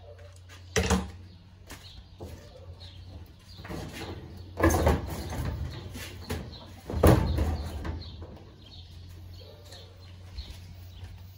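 Three loud knocks, about one, five and seven seconds in, each trailing off for about a second, with lighter clicks and clatter between.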